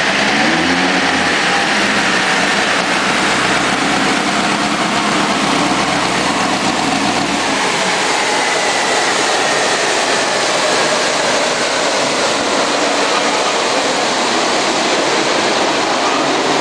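Drag car engine on a chassis dyno, rising in pitch near the start and then held at high revs. About halfway the deep engine note drops away, leaving a high whine that slowly falls as the tyres and dyno rollers spin down.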